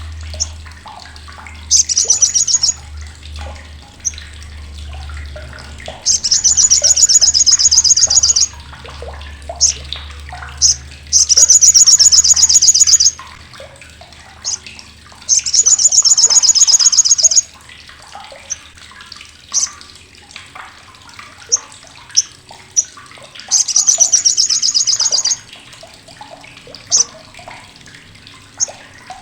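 Olive-backed sunbird (sriganti) giving its loud, harsh, rapid rattling chatter in five bursts of about two seconds each, with short sharp chips between them.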